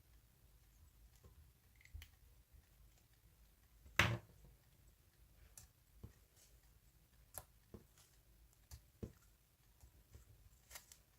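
Scattered faint clicks and taps at uneven intervals, with one louder knock about four seconds in.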